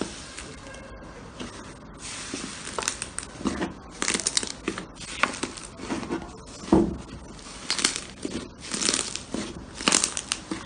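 Slime being squeezed and pressed by hand, making irregular crackling pops and squishes that come faster and louder after the first couple of seconds.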